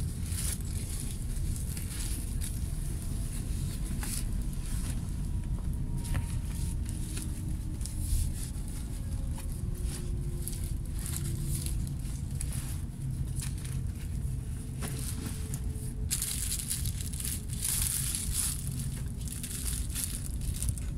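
Cabin noise of a moving electric commuter train: a steady low rumble with faint motor whines that slowly glide in pitch. Over it, rustling and crackling handling noise, strongest near the end.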